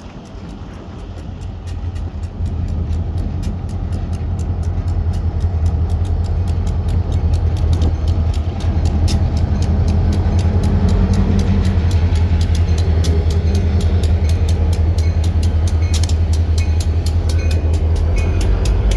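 Train approaching and passing close by. A low engine drone builds over the first few seconds and then holds, with rapid, steady clicking of wheels over the rail joints.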